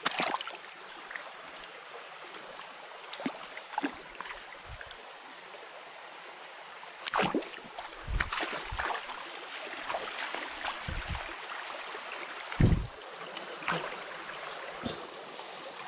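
Steady rush of flowing stream water, with scattered irregular knocks and thumps.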